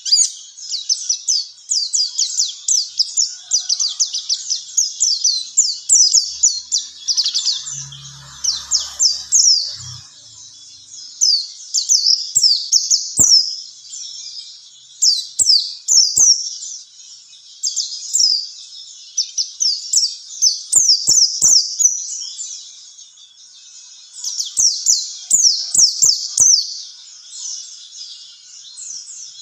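White-eye (pleci) singing a fast, high-pitched twittering song: quick runs of short descending notes with brief pauses between runs.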